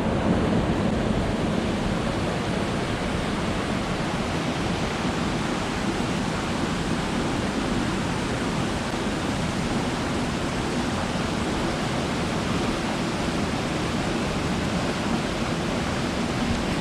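Mountain headwater stream rushing steadily, an even wash of water noise with no breaks.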